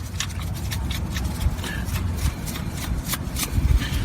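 Gloved hands threading a steel drain plug back into the oil pan: light, irregular clicks and rustling over a low rumble.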